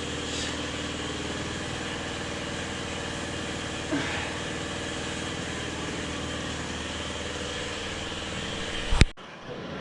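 A small engine running steadily at idle. About nine seconds in, a sharp loud click cuts it off.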